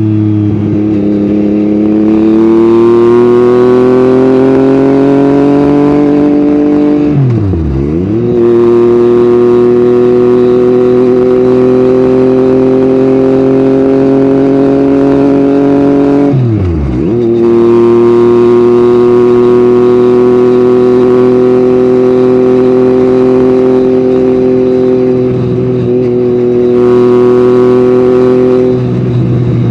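Yamaha MT-09 inline-three engine running through an Akrapovic exhaust under way. The engine note climbs steadily for the first six seconds or so, then holds a steady cruising note. It dips sharply and recovers twice, about eight and seventeen seconds in.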